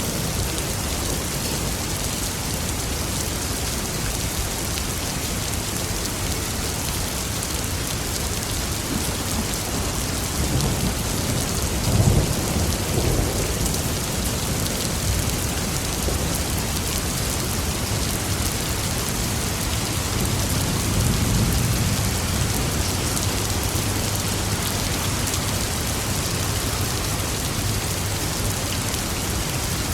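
Steady heavy rain falling, with thunder rumbling twice: a louder roll with a sharp crack about twelve seconds in, and a softer, longer rumble about two-thirds of the way through.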